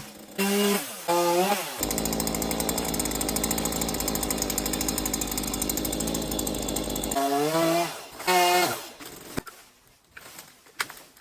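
Chainsaw running steadily at high speed for about five seconds, starting about two seconds in and cutting off suddenly.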